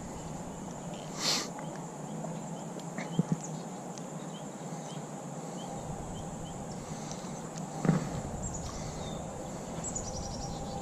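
Outdoor creek-side ambience: a steady high insect drone over an even background hiss, with a few faint short chirps and three light knocks.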